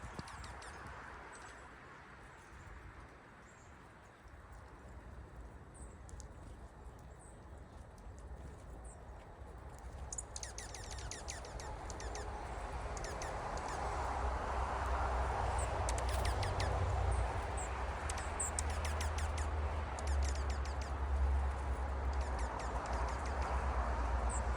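Small wild birds chirping, with scattered short high chips and quick down-sweeping calls, a few in quick clusters. A low rumble swells up beneath them from about halfway through.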